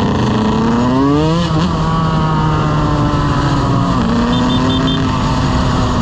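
Motorcycle engine revving, its pitch rising for about a second and a half, then running steadily. Four short high beeps sound about two-thirds of the way through.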